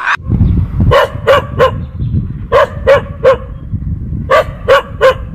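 Dog barking in three quick runs of three sharp barks, over a steady low rumbling noise.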